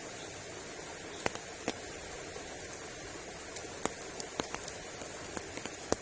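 Heavy rain falling: a steady hiss with irregular sharp taps of single drops striking close by.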